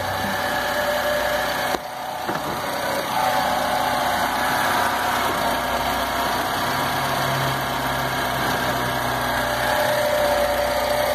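VW Gol's rebuilt 1.0 EA111 four-cylinder engine idling steadily on its first start, with a brief dip in level about two seconds in.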